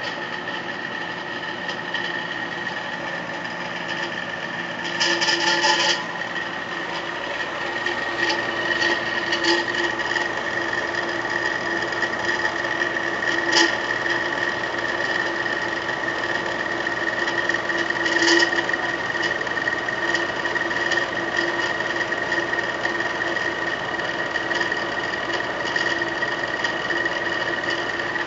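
Komecco Ambient 9000 BTU/h portable air conditioner running, with a steady whine under an irregular scraping rattle from the wheel that drives the hot air out through the exhaust hose. The owner takes it for that wheel being loose and rubbing on the unit's housing. The rattle grows louder about five seconds in, with a few sharper knocks later.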